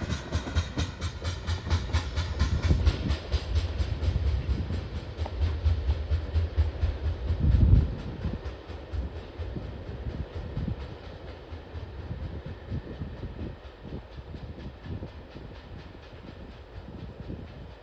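A long CSX freight train's cars rolling past slowly, held back by the Berkshire grade, with wheels clicking over the rail joints and a steady rolling rumble. There is a loud low surge about seven and a half seconds in, then the sound gradually fades.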